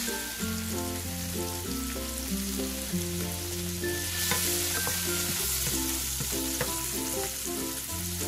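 Shrimp and vegetables sizzling in a frying pan as they are stirred with a wooden spatula, with a few sharp knocks of the spatula against the pan in the middle. Background music with a bass line runs underneath.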